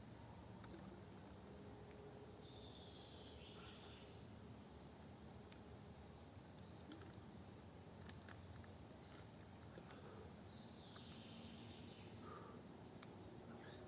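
Faint birdsong over a low, steady background hiss: thin high notes throughout, with a longer falling phrase about three seconds in and again about eleven seconds in.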